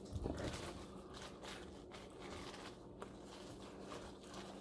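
Faint room tone with a low steady hum and a few soft knocks.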